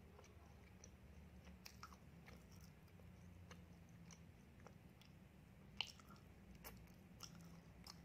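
Faint close-miked chewing of a peanut-topped donut: soft, scattered mouth clicks and small crunches, with one sharper click near six seconds in.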